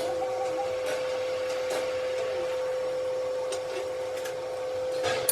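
A running machine motor giving a steady whine at one pitch over an even hiss, with a few faint clicks.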